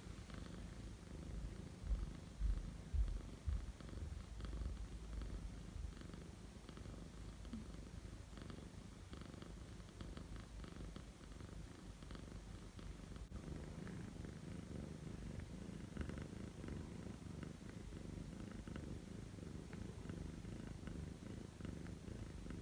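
Scottish fold cat purring steadily, a continuous low rumble. A few low bumps about two to three seconds in.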